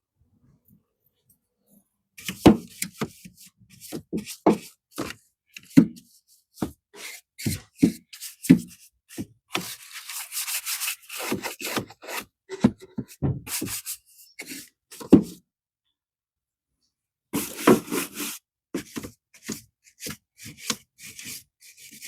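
Hand brush scrubbing carpet cleaner into a car's carpet in irregular strokes, with a pause near three-quarters of the way through before the scrubbing resumes.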